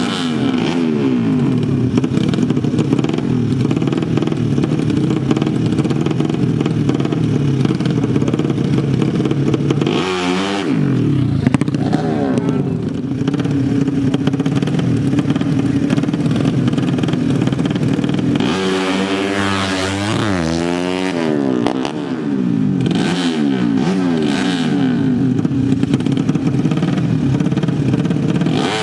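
Tuned drag-bike motorcycle engines running hard and revving, the steady drone broken several times by steep rising and falling sweeps in pitch as bikes rev up and pass.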